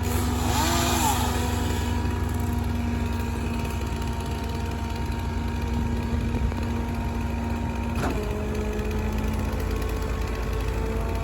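An engine runs steadily with a constant hum. A louder rasping burst with wavering pitch comes in the first second or two, and a short click follows about eight seconds in.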